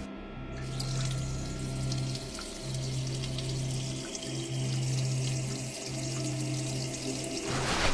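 A steady stream of liquid splashing: a man urinating. Under it runs a low droning hum that breaks off briefly a few times.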